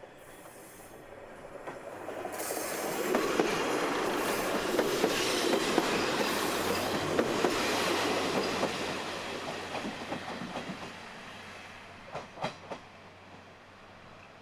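Kominato Railway KiHa 200-series diesel railcar going by on the track. The rumble and rail noise build up, are loudest for several seconds, then fade away, with a few sharp wheel clacks over rail joints near the end.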